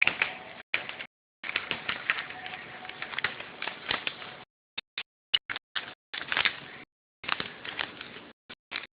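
A sheet of paper being folded and creased by hand, crinkling and rustling in irregular spurts with short pauses between them.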